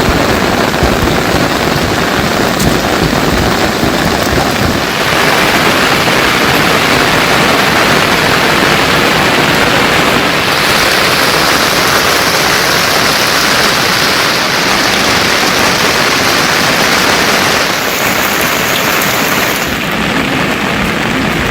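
Heavy monsoon rain falling, a loud, steady hiss whose tone shifts a few times.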